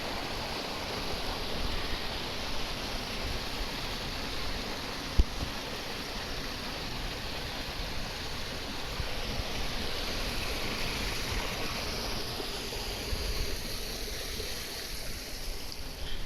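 Waterfall water rushing as a steady roar, with one sharp low thump about five seconds in.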